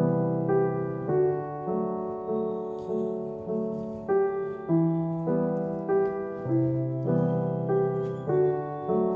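Soft background piano music, a gentle sequence of notes struck about every half second or so.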